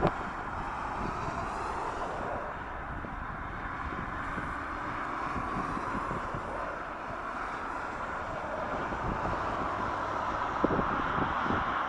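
Jet aircraft engines heard at a distance as a steady drone, with gusts of wind buffeting the microphone, most of all near the end.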